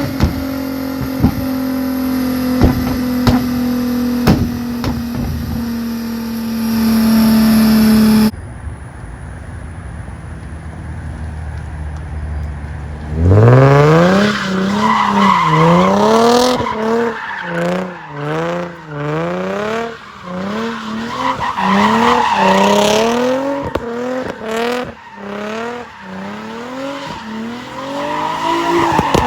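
Infiniti G35 coupe's 3.5-litre V6 through a Tomei titanium Y-back exhaust. At first it holds a steady note, with sharp pops and crackles from the tune. After a cut it drops to a low rumble, then it is revved up and down again and again.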